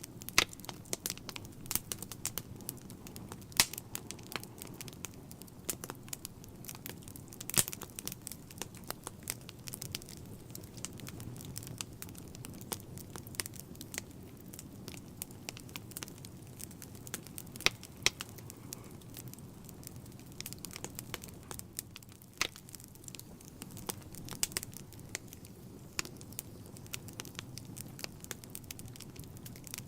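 Wood fire burning in a fireplace: a steady low rumble of flames with frequent irregular crackles and pops, a few much sharper than the rest.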